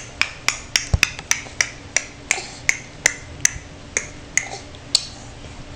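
A baby clicking his tongue over and over, about three sharp clicks a second, spacing out toward the end.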